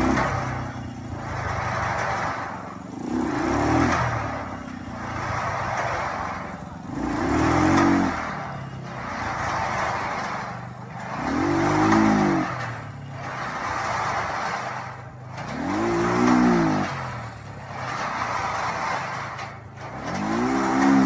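Motorcycle engine revved over and over, each rev rising and falling in pitch, about every four seconds and getting stronger toward the end, over a rushing noise that swells and fades about every two seconds.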